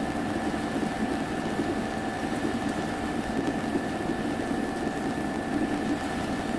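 A machine running with a steady hum, holding several fixed tones throughout without change.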